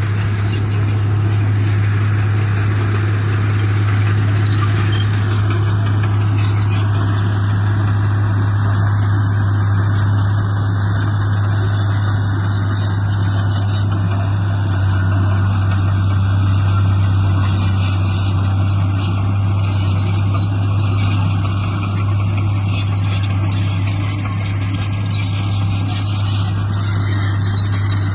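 Diesel engine of heavy earthmoving machinery running steadily, with a deep hum and mechanical clatter.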